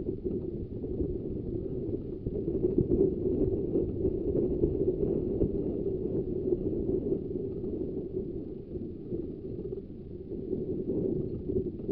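Ravenglass and Eskdale Railway's 15-inch-gauge train running along the line, a steady rumble of the carriage and wheels on the track with faint clicks.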